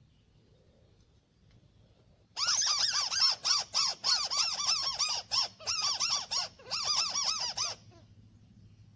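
White-browed crake calling: a loud, fast chattering series of arched notes, about four a second, starting a couple of seconds in and lasting about five seconds with a few short breaks.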